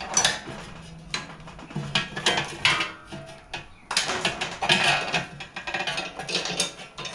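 Steel #40 roller chain clinking and rattling in irregular bursts as it is handled and fed through the mini bike's sprocket area.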